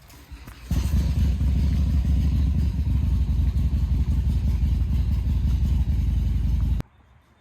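Motorcycle engine running with a rapid low beat. It comes in suddenly about a second in and cuts off abruptly near the end.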